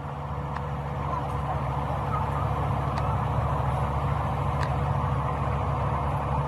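Heavy engine running steadily with a low, even drone, with a few faint ticks over it.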